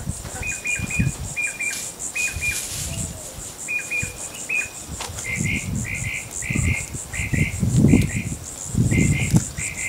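A cricket chirping close to the microphone: a steady, fast pulsing high trill with clusters of shorter, lower chirps repeated every half second or so. Low irregular knocks and rustling come and go underneath.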